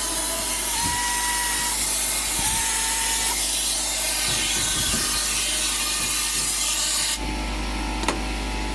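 Compressed air from an air hose blowing through a clothes dryer vent duct to clear out lint: a steady rushing hiss with a faint wavering whistle in the first few seconds. The hiss cuts off sharply about seven seconds in, followed by a single click.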